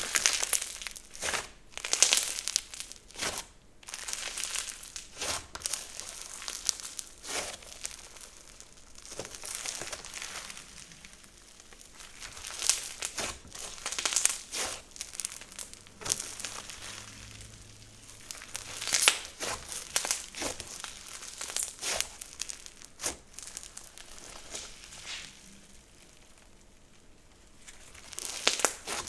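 Slime being squished, poked and stretched by hand, giving off irregular sharp clicks and pops.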